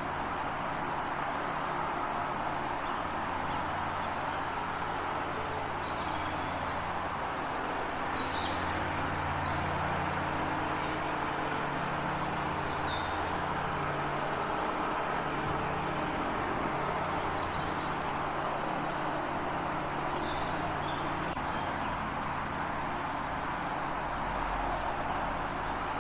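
Small birds chirping by a lake: short, high chirps scattered through the middle of the stretch, over a steady background wash of noise with a low hum.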